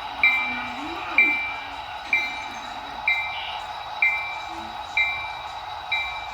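A bell struck steadily about once a second, each stroke ringing briefly and fading before the next.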